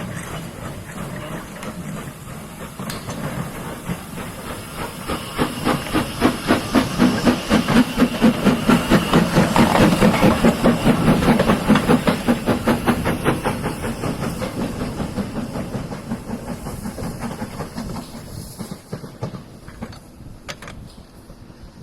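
Steam locomotive passing, a rapid rhythm of exhaust beats over steady hiss. It grows louder to a peak about ten seconds in, then fades away.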